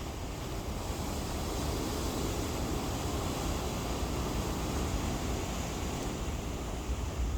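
Ocean surf washing in, one wave swelling about two seconds in and easing off, under a steady low rumble of wind buffeting the microphone.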